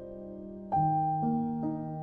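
Slow, soft piano music: a new chord struck about three-quarters of a second in, followed by single notes, each ringing and fading.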